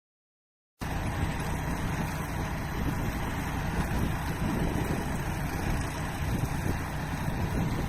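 Farm machinery running steadily, cutting in abruptly after almost a second of silence, with wind noise on the microphone.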